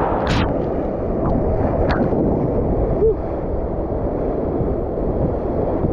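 Rushing whitewater river around a raft, a steady churning roar with a few short splashes near the start and around two seconds in, and wind buffeting the microphone.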